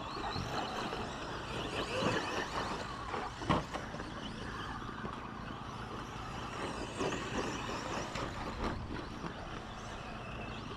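2wd RC short course trucks racing: a steady mix of motor whine and tyre noise, broken by a few sharp knocks, the loudest about three and a half seconds in.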